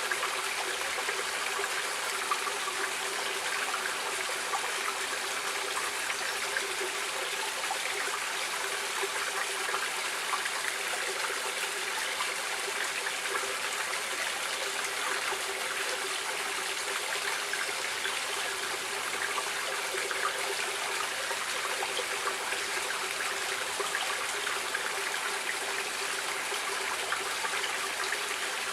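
Stream water running and trickling steadily, an even rushing hiss without pauses.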